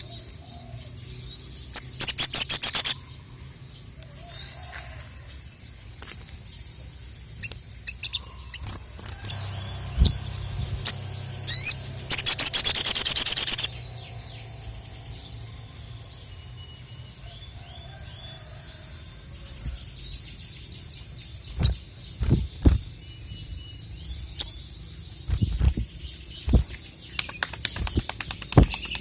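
Sogon (sogok ontong) singing hard: two loud, fast, high trills, the second and longer about twelve seconds in, between scattered sharp chips and short calls.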